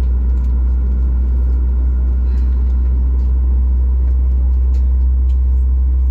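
Steady low rumble and drone inside a Boeing 737-8200 airliner cabin, with a few faint clicks over it.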